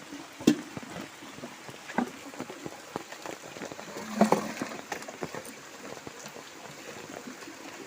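Light rain falling, with scattered drips and ticks. A few louder thumps break through it, the loudest about four seconds in.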